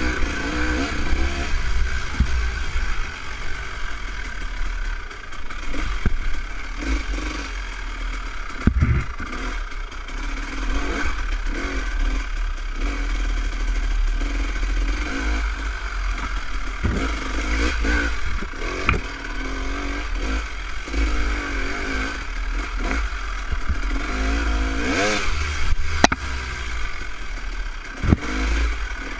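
Dirt bike engine running at an easy trail pace, its pitch rising and falling with the throttle, over a steady low rumble. Knocks and rattles come and go throughout.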